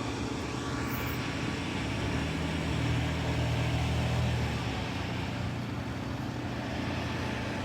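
Motor vehicle traffic running steadily, a low engine hum over road noise that swells a little about three seconds in as a vehicle passes.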